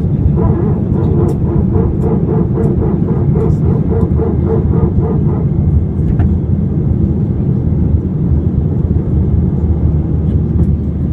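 Airbus A320 cabin noise: a steady, loud low rumble of the engines and airflow heard from a passenger seat. For roughly the first five seconds a rhythmic pulsing sound rides over the rumble, about three beats a second.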